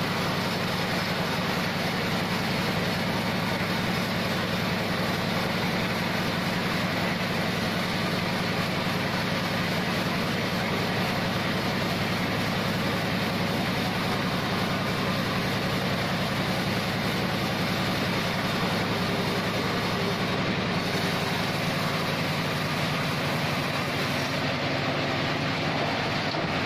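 An engine-driven log band saw (gergaji selendang) running steadily, a constant engine hum under a dense mechanical noise with no let-up.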